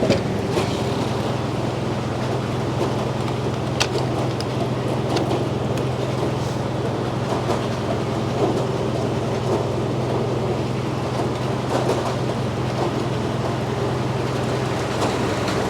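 Frick sawmill running with a steady low drone, with scattered sharp clicks and knocks over it.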